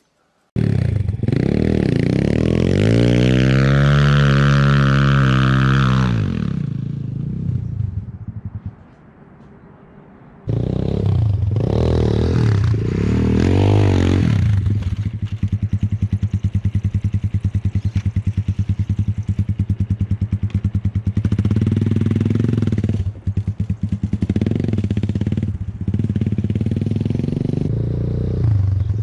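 Enduro motorcycle engine revving and running under load, its pitch rising and falling with the throttle. It drops back for a couple of seconds about eight seconds in, then picks up again with a fast, even firing pulse and more bursts of throttle.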